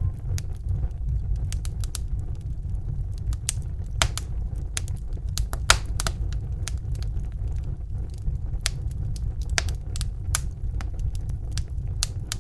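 Fireplace fire crackling: irregular sharp pops and snaps over a steady low rumble, with a couple of louder pops around four and six seconds in.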